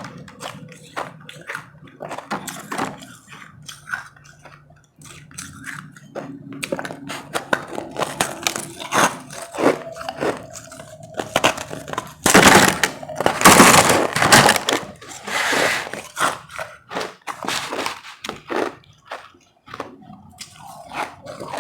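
Close-up crunching and chewing of powdery ice: a rapid, irregular run of crisp crunches as the ice is bitten and chewed, with a louder, denser stretch a little past halfway.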